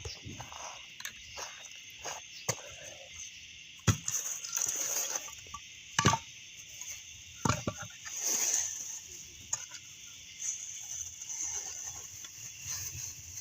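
Steady, high-pitched night chorus of insects and frogs calling, with a few sharp pops and knocks a couple of seconds apart, the loudest about six seconds in.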